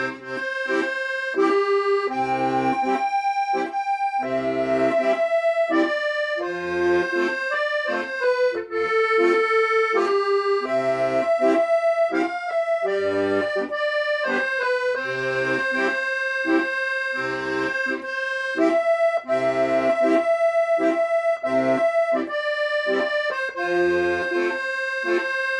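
Accordion playing a sustained melody over a steady, regular bass-and-chord accompaniment.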